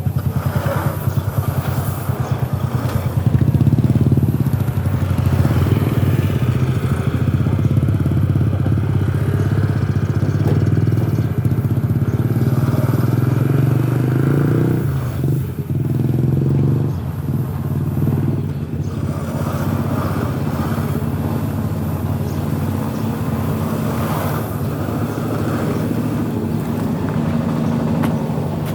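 A small engine running steadily with a rapid, even firing pulse, easing off slightly about halfway through.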